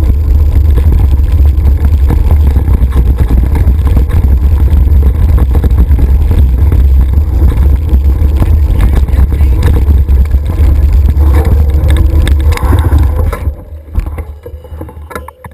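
Heavy wind buffeting and rumble on the microphone of a mountain biker's camera while riding fast. It drops away sharply near the end as the bike slows, leaving a few light clicks and rattles.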